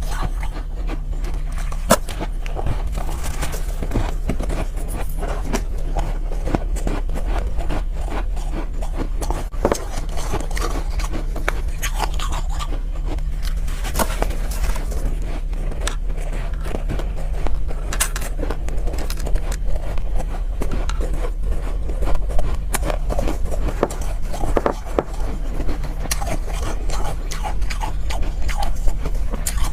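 Soft ice being scraped and bitten, a dense run of crisp crunching and scraping sounds, over a steady low hum.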